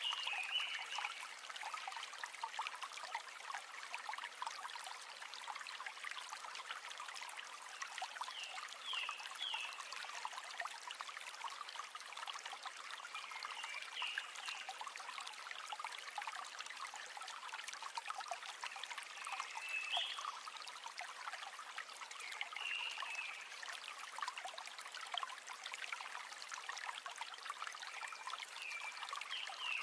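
River water flowing and trickling: a steady rush with many small splashes, and a short high chirp about every five seconds.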